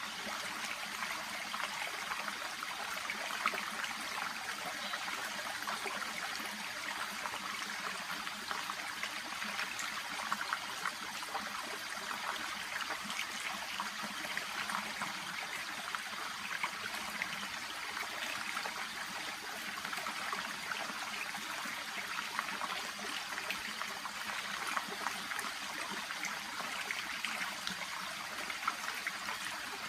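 Shallow brook babbling and trickling steadily, a continuous water murmur with many small splashes and droplet ticks.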